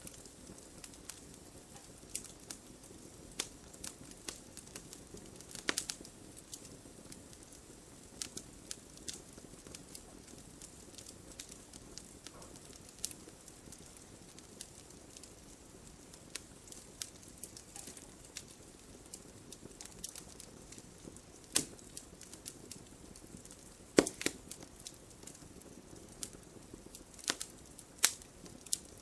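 Campfire burning: wood crackling and popping, with scattered sharp snaps over a soft low hiss of flame, a few louder pops near the end.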